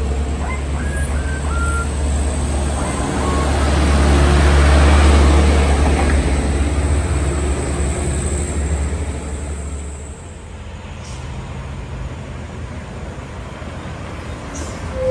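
Heavy diesel truck passing close by, its low engine rumble building to a peak about five seconds in and falling away after about ten seconds.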